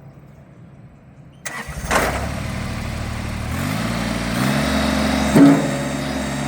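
Kubota BX2370 compact tractor's three-cylinder diesel engine being started: it cranks briefly and catches about a second and a half in, its pitch rises as the revs come up, and then it runs steadily. A single sharp knock sounds about five seconds in.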